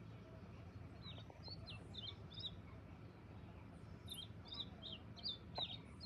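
Faint songbird chirping: series of short, high, down-slurred notes, about four a second, in two bursts, the second near the end, over a low steady background hum.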